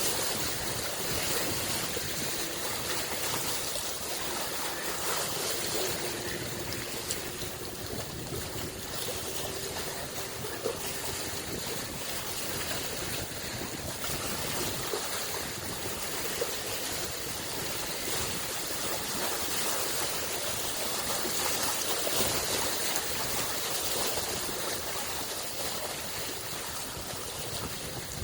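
Small lake waves lapping, a steady wash of moving water with a few faint clicks.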